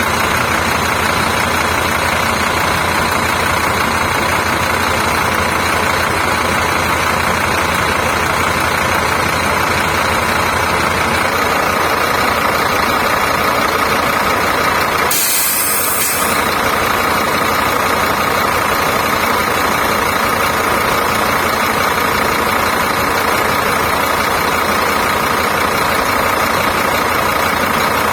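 Scania K310 coach's diesel engine idling steadily, with a short burst of hiss about halfway through.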